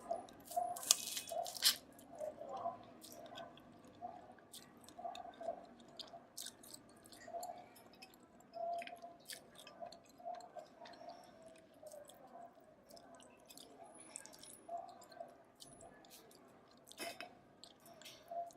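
Close-miked chewing of steamed river crab: wet mouth sounds with frequent small sharp clicks, the loudest cluster about a second in.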